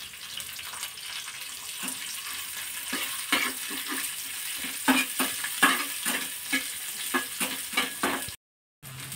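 Sliced onion, green chilli and curry leaves sizzling in hot oil in a non-stick frying pan, stirred with a flat metal spatula that scrapes and taps against the pan again and again. The sound drops out for a moment near the end.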